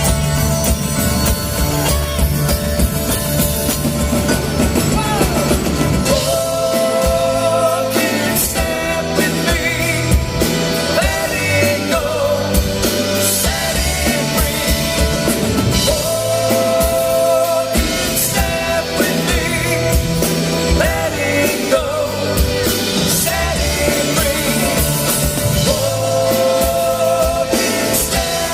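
A live band playing an instrumental rock passage with drum kit, with some singing.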